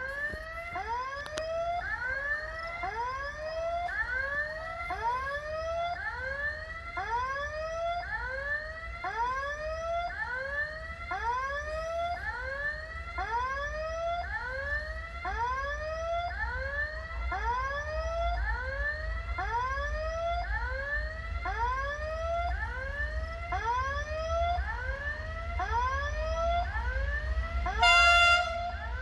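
Level-crossing electronic warning signal sounding, a rising-and-falling tone repeating about once a second. Near the end a locomotive horn gives one short, loud blast, with a low rumble underneath.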